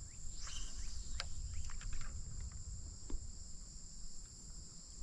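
Insects trilling steadily in a high, unbroken drone, with a few faint short ticks and chirps in the first two seconds over a low rumble.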